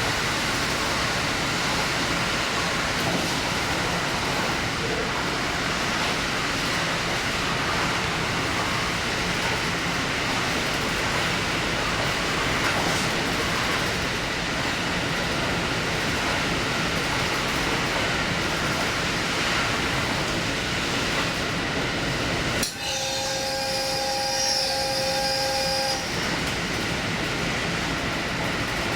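Diesel express train running at speed: a steady rumble and hiss of wheels and engine. Near the end a steady two-note tone sounds for about three seconds over it, then stops.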